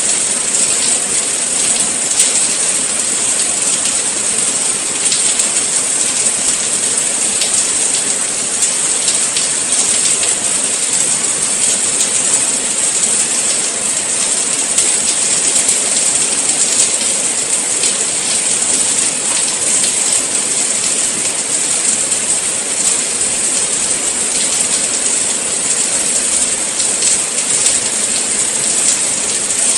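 Steady rain falling, a dense even hiss with a scattered patter of individual drops.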